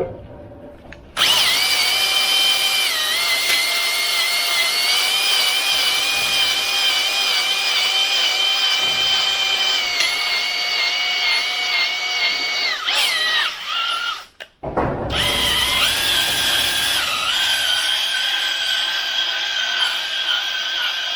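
Drill spinning a wet-stone cylinder hone in an engine-block bore, a steady whine with the stones rubbing on the cylinder wall. It starts about a second in, winds down and stops a little after halfway, then starts again at a slightly different pitch.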